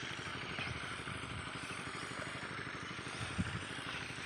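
Diesel engine driving an irrigation water pump, running steadily with a fast, even beat. A short knock about three and a half seconds in.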